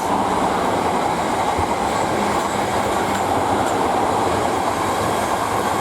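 South Western Railway Class 444 Desiro electric multiple units, two coupled, running past on the main line. Their wheels on the rails make a steady, even rush that holds at the same level throughout.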